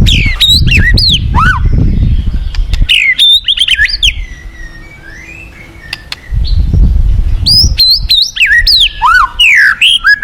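White-rumped shama (murai batu) singing a fast, varied song of rising and falling whistles mixed with sharp clicks. A loud low rumbling rush comes in under it twice.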